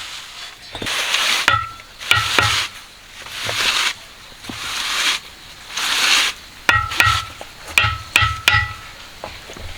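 A metal shovel scraping through sand or gravel in about five strokes, with bursts of sharp metallic clinks that ring briefly, mostly near the start and again about two thirds of the way in.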